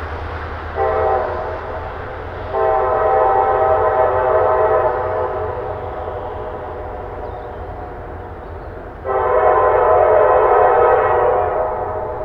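Diesel locomotive's multi-chime air horn: a short blast about a second in, a long blast, then after a pause another long blast, over a steady low rumble of the train.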